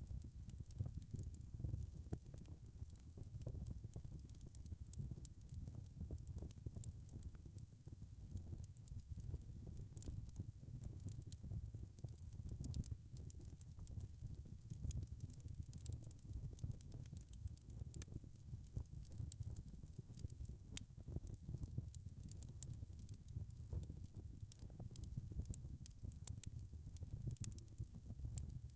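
Wood fire crackling in a fireplace: a steady low rumble of the flames with frequent small, sharp pops and crackles.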